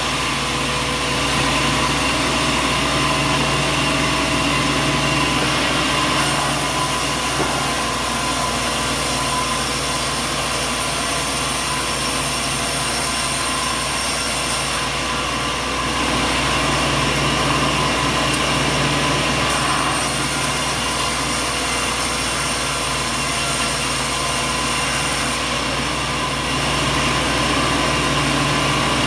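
Sawmill machinery running: a loud, steady mechanical din with held whining tones, changing abruptly several times.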